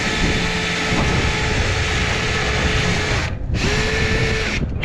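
Power drill spinning a rotary brush on rods inside a lint-clogged dryer vent duct, running steadily. It stops briefly about three seconds in, starts again, and cuts off near the end.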